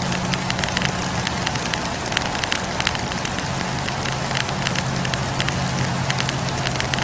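Wood campfire burning: an even rushing hiss with frequent sharp crackles and pops from the logs, over a steady low drone.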